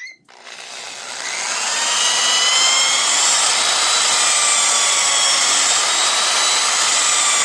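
10-inch job site table saw with a Diablo blade starting up, spinning up to speed over about a second and a half, then running steadily with a high whine while cutting 1/8-inch plexiglass strips.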